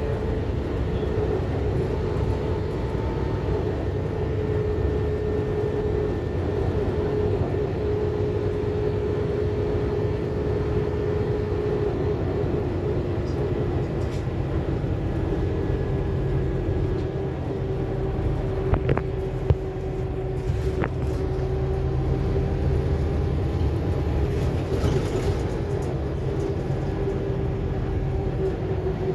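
Interior running noise of a Scania K280UB4 city bus under way: a steady low rumble with a droning drivetrain whine that drifts slowly in pitch, and a couple of sharp clicks about two-thirds of the way through.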